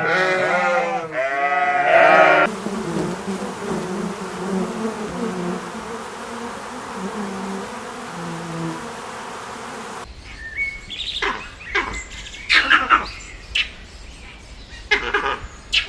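A run of different animal sounds: pitched calls bending in pitch, then a steady hiss with low humming tones, then from about ten seconds in a series of sharp, short calls that fall in pitch.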